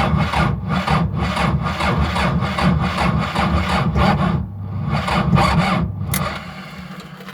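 Electric starter cranking a T-40 tractor's cold diesel engine after a shot of quick-start spray, turning it over with even compression pulses a few times a second without it firing; the cranking stops about six seconds in. The engine will not start after the winter, and the battery has run down.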